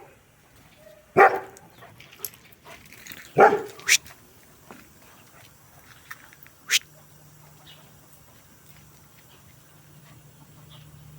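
German Shepherd barking twice, about a second in and again about two seconds later, with a few sharp clicks in between and after.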